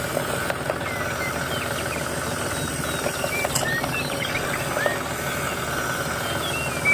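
A small motor running steadily with a fast, even rattle, while birds chirp now and then.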